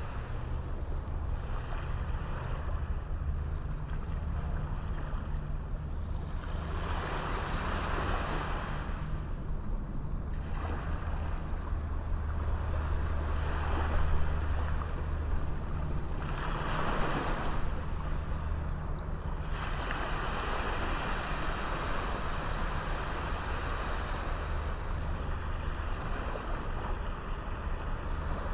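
Sea waves breaking and washing up on a small beach, coming in as a series of swelling rushes of surf over a steady low rumble.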